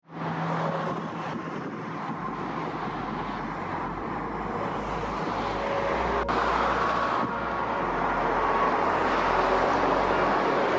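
Motorway traffic, lorries and cars passing at speed: a steady rush of tyre and engine noise that slowly grows louder.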